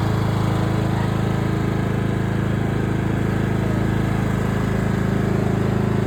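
Cub Cadet riding lawn mower's engine running steadily at an even speed.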